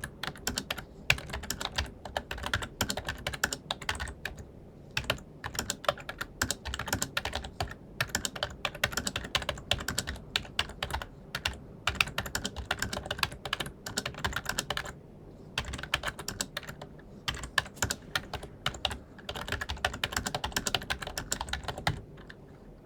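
Continuous fast typing on an ELECOM TK-FCM104BK wired membrane keyboard: a steady run of irregular key clicks, audible but not noisy, with a short pause about two-thirds through, stopping shortly before the end.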